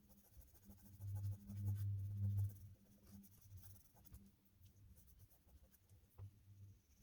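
Oil pastel being rubbed onto textured paper, a low scrubbing that is loudest for a second and a half near the start, with a few faint ticks.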